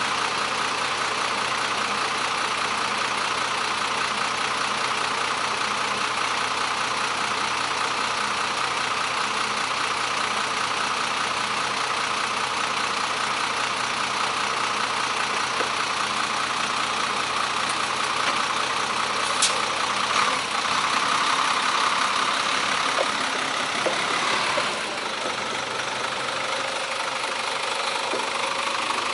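Steady road and wind noise of a bicycle ride, picked up by an action camera mounted on the bike, with one sharp click about two-thirds of the way through.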